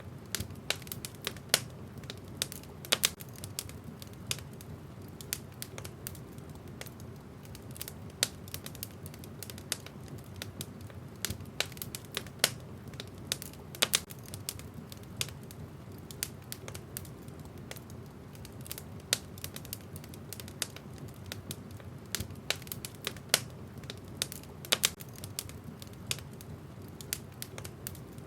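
Wood fire burning in a fireplace: irregular sharp crackles and pops, several a second, over a steady low rush of the flames.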